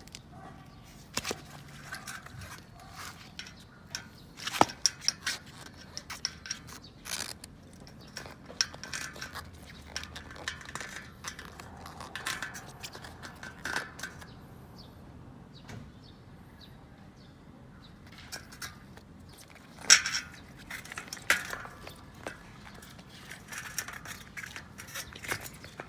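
Hand work on a bicycle: irregular clicks, knocks and clinks of metal parts and tools being handled, with short stretches of scraping or rubbing in between.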